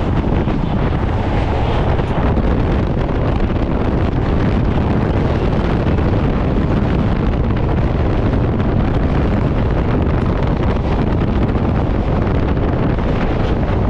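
Suburban EMU local train running at speed: a steady, loud rumble with heavy wind buffeting the microphone.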